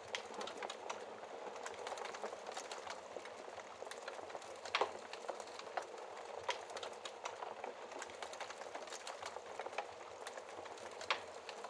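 Wood fire crackling in a fireplace: a steady hiss with frequent small pops and snaps, and a louder snap about five seconds in and another near the end.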